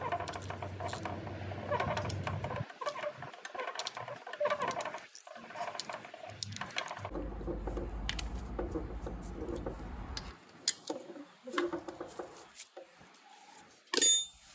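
Hand tools and bolts clicking and scraping as a new water pump's bolts are tightened by hand on a 1.6 HDi diesel engine. There is one sharp metallic clink near the end.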